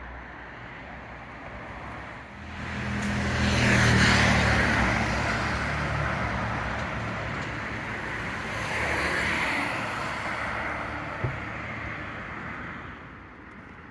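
Road vehicles passing on a street: engine hum and tyre noise swell to a peak about four seconds in, a second vehicle passes around nine seconds, and the sound fades away near the end. A single sharp click comes about eleven seconds in.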